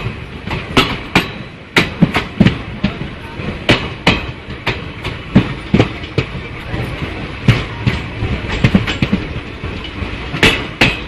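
Express train's coaches rolling slowly along the station track, wheels clacking sharply and irregularly over rail joints, about two clacks a second over a steady rumble.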